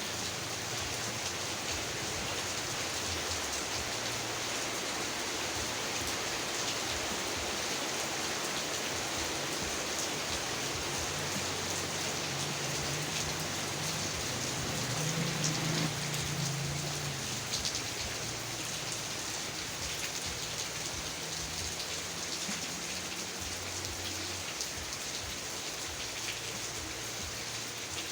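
Steady heavy rain falling, a dense even hiss of many drops. A low rumble swells and fades about halfway through.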